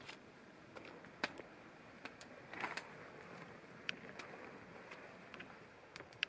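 Sparse, irregular small clicks and snaps over a faint steady hiss, with a short rustle about two and a half seconds in.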